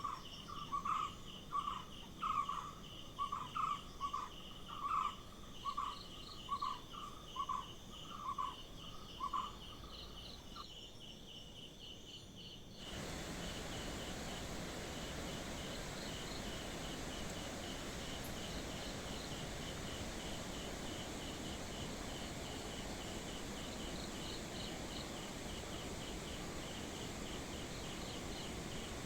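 Forest ambience of insects chirping in a steady, fast pulsing trill. For the first ten seconds a louder animal call repeats about twice a second; about halfway through the background changes suddenly to a steady rushing hiss under the insects.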